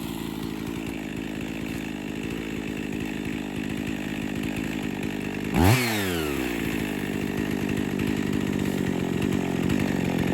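Two-stroke Husqvarna 55 chainsaw running under load as it cuts through hard wood with a dull chain. About halfway through, the engine briefly surges and its pitch drops sharply, then it settles back into a steady cut.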